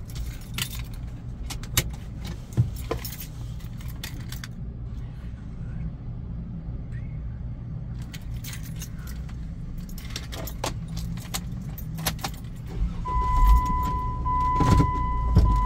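Low steady rumble of a car's engine heard from inside the car, with scattered light clicks and jingling rattles. Near the end a steady electronic beep tone starts and keeps going with short breaks, like a car's warning chime.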